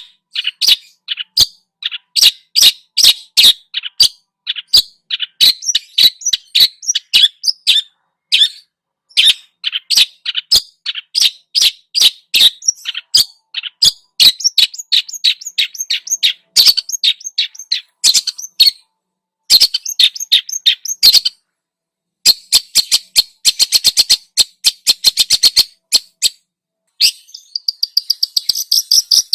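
Songbird singing a fast, chattering song of sharp, clipped notes, with a quick run of rapid notes about two-thirds of the way through and a buzzy rattle near the end.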